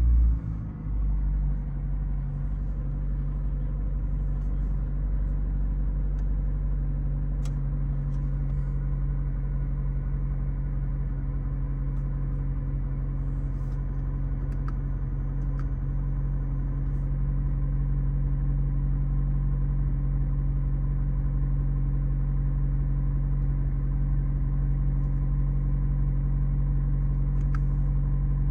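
McLaren 765LT's twin-turbo 4.0-litre V8 idling steadily, a low even drone.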